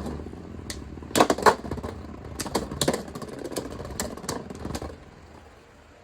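Two Beyblade spinning tops, a 3D-printed custom bey and a Beyblade X Dran Sword, whirring in a plastic stadium, with sharp clacks as they hit each other and the walls at irregular intervals. The whir and hits die down near the end as the battle finishes.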